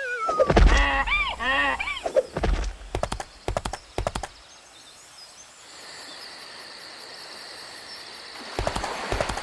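Cartoon sound effects: a wavering whistle sliding down in pitch, then a thud about half a second in, followed by a few bouncy tones that rise and fall. Hoof-like clip-clop clicks come around the middle. From a little past halfway a steady, high, pulsing chirring of night crickets sets in, with more clicks near the end.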